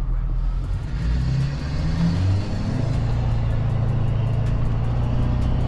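Vehicle engine running steadily while driving, its pitch rising and dipping briefly about a second or two in as the speed changes.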